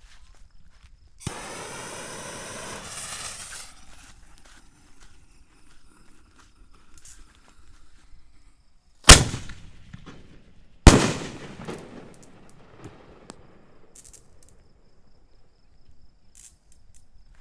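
Excalibur 4-inch canister shells being fired: a two-second hissing rush about a second in, then two loud sharp firework bangs close together near the middle, each trailing off in an echo.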